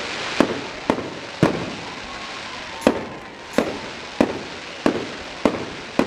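Fireworks display going off: about nine sharp bangs at irregular intervals of half a second to a second and a half, each trailing off in an echo, over a continuous background hiss.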